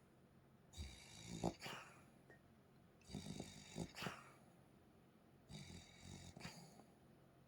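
A pet dog snoring in its sleep: three faint snores about two and a half seconds apart, each a low rasp with a thin whistling note.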